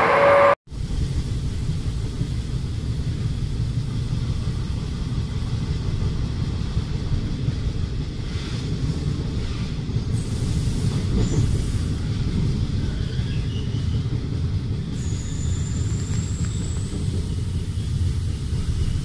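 A louder train sound cuts off abruptly about half a second in, giving way to the steady low rumble of a moving train heard from on board.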